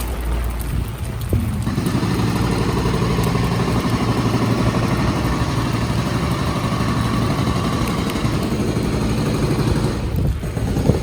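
A motor vehicle's engine running close by on a wet street, together with its tyres' spray, loud from about two seconds in and dropping away near the end.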